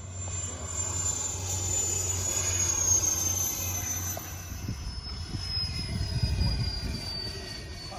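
RC model airplane's motor giving a high whine whose pitch falls slowly and steadily, as the plane throttles back or flies past. Low rumbling gusts of wind on the microphone come in the second half.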